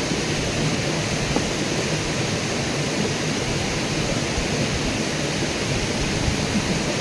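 Steady rushing of a flowing river, an even, unbroken wash of water noise.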